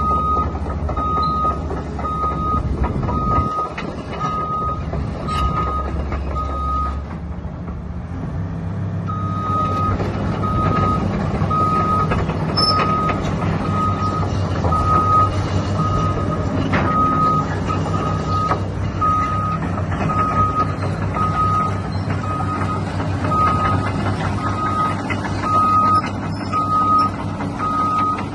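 Caterpillar 320CL excavator's diesel engine running with its travel alarm beeping about once a second; the beeping stops for about two seconds partway through, while the engine note shifts, then resumes.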